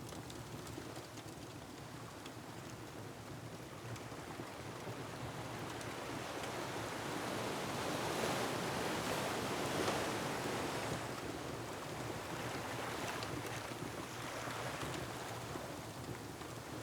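Ocean surf in a steady wash of waves, swelling to a louder surge about halfway through and then easing back. Faint crackles of a wood fire run through it.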